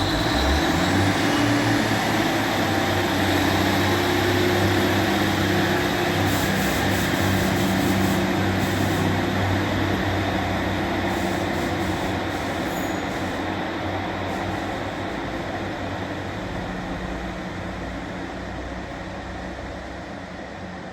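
Diesel train passing through the station: a loud, steady low engine note over wheel and rail noise, with a few light clicks midway, slowly fading over the last several seconds.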